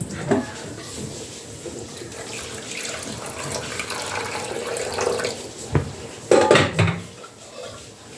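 Water running into a cup, growing louder as it fills over a few seconds, then a sharp knock and a short clatter of kitchenware about six seconds in.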